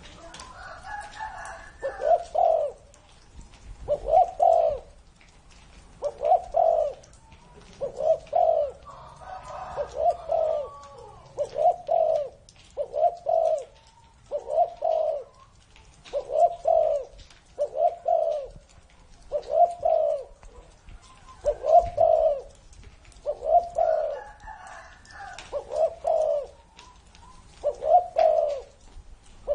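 Spotted dove cooing: a long, even series of short, low coos, about one every one and a half seconds.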